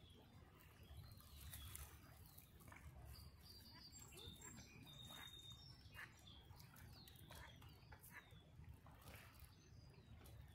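Faint, repeated high chirps of small birds over a low, steady rumble.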